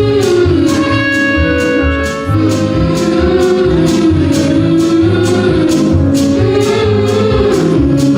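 A song with a steady beat: a voice singing a wavering melody over an instrumental accompaniment with bass and guitar.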